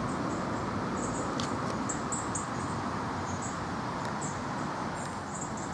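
Small bird chirping in thin, high, short notes at irregular intervals, over a steady rushing outdoor background noise.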